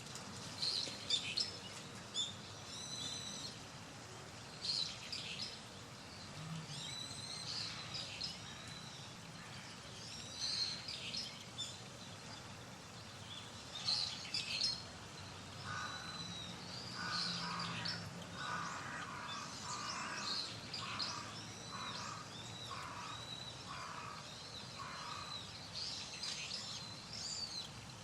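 Wild songbirds chirping and twittering in short high phrases throughout, over steady outdoor background noise. From just past the middle, a lower call repeats about once a second for several seconds.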